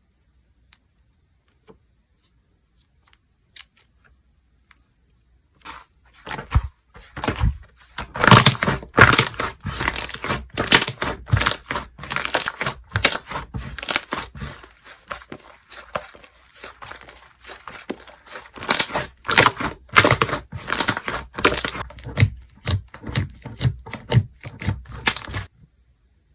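Slime being squeezed, stretched and folded by hand, giving dense crackling and popping sounds from about six seconds in, after a few faint scattered clicks.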